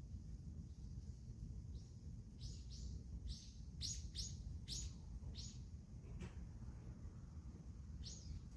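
A small bird calling, a quick run of short high chirps that each drop in pitch, about ten in four seconds, then a single chirp near the end, over a faint low rumble.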